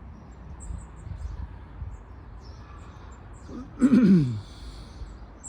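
Small birds chirping in short high notes over a low steady outdoor rumble. About four seconds in comes one short, loud sound that falls in pitch.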